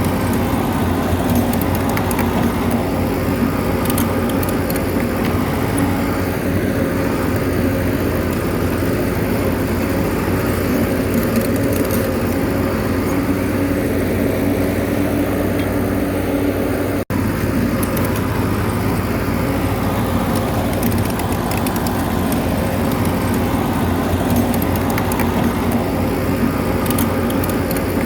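Bulldozer's diesel engine running steadily, with a momentary break in the sound about two-thirds of the way through.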